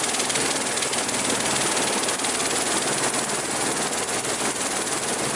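Helicopter's engine and rotor running steadily close by.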